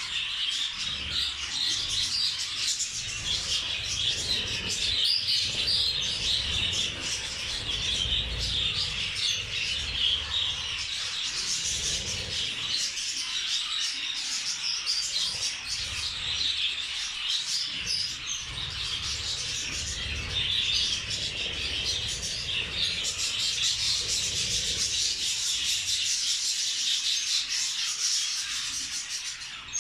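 A flock of budgerigars chattering and chirping continuously, many birds at once, with a low irregular rumble underneath.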